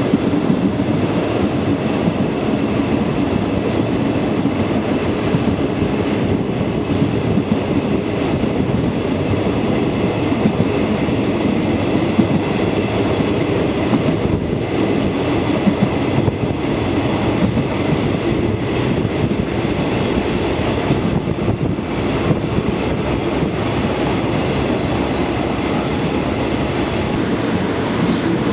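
Passenger train running steadily along the track, a continuous rumble and rattle of the moving carriage.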